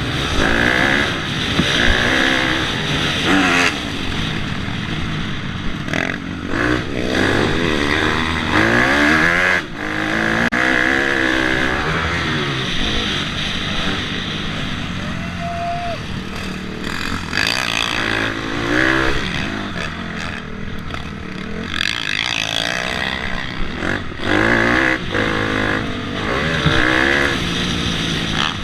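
Motocross dirt bike engine revving hard and easing off over and over, the pitch climbing and dropping every second or two as the rider works the throttle and shifts gears on the track.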